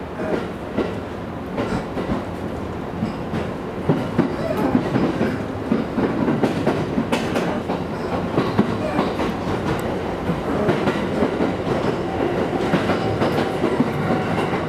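Running noise inside a JR East E231 series electric commuter train: a steady rumble with the wheels clicking over rail joints, growing louder about four seconds in.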